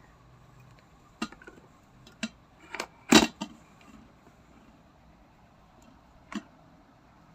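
A handful of short knocks and clinks as a glass electric kettle and its parts are handled and set down, the loudest about three seconds in.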